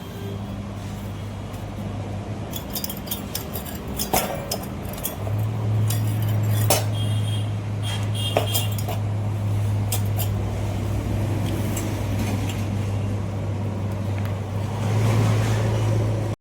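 Steady low machine hum that grows louder about five seconds in, with scattered sharp metallic clinks and clicks over it.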